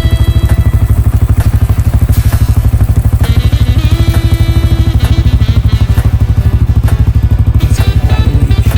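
ATV engine running steadily, with a rapid, even firing pulse.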